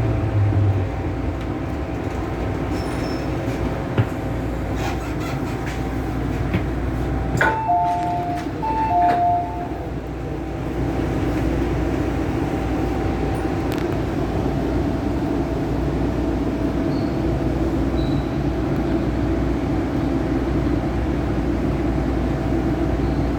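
MTR M-Train electric multiple unit running at speed: a steady rumble of motors and wheels on the track. A short two-note electronic beep sounds twice about eight seconds in.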